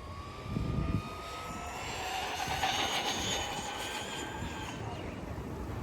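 Brushless electric motor of an Arrma Big Rock 4x4 RC truck whining under full throttle on a speed run, the whine slowly rising in pitch. There is a short low rumble about half a second in, and the whine is loudest around the middle, then fades as the truck runs away.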